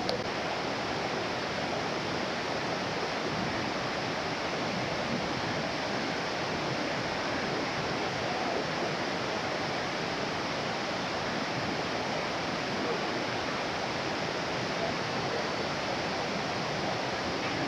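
Steady rushing of a waterfall, water cascading over rock in an even, unbroken wash of noise.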